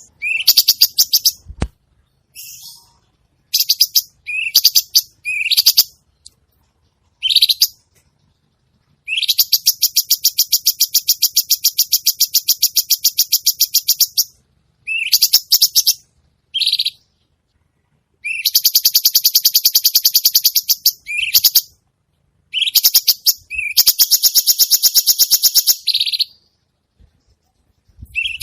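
Songbird song of the harsh 'kasaran' kind used in masteran recordings for training competition birds. It comes as high-pitched chattering phrases separated by sudden silences, with two long rapid trills.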